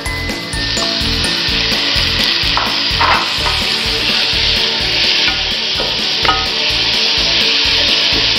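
Chopped tomatoes sizzling in hot oil with sautéed onions in a nonstick pan, stirred with a wooden spatula. The hiss swells about half a second in as the tomatoes go in, with scraping strokes of the spatula through it.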